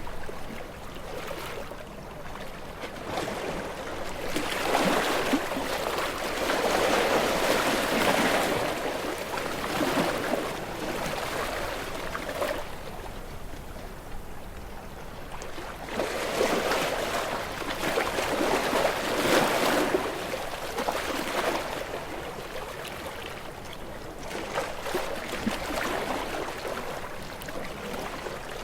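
Sea waves washing against shoreline rocks, with the rush of water swelling and ebbing in three surges several seconds apart.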